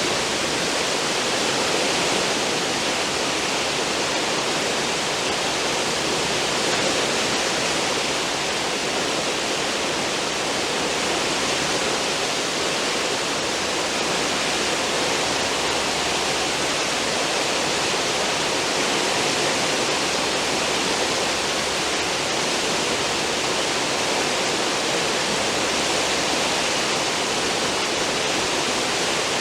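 Steady rushing and churning of a cruise ship's wake, water foaming behind the stern, with no breaks or single events.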